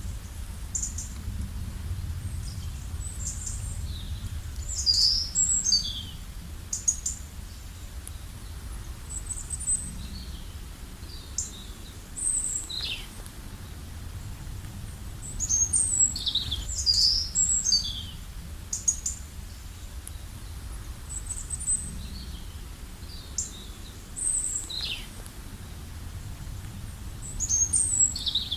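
Small birds chirping and singing on and off: short high chirps and quick falling notes, in clusters. Under them runs a steady low rumble.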